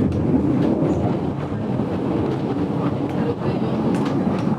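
GoldenPass Belle Époque train running along the track, heard from inside its vintage carriage: a steady low rumble with a few light clicks from the wheels over the rails.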